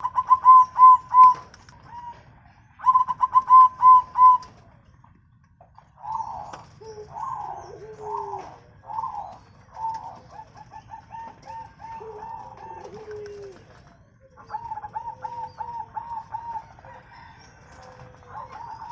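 Zebra doves (perkutut) cooing: rapid series of short, repeated notes, two loud bouts in the first four seconds, then after a brief pause several birds calling over one another, with lower, falling calls from another bird among them.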